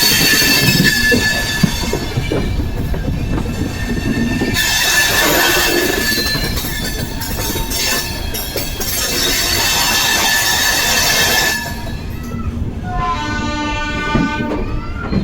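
Amrit Bharat Express coach wheels squealing on the rails in several steady high tones while the train runs with rail noise underneath. About thirteen seconds in, the squeal drops away and a train horn sounds.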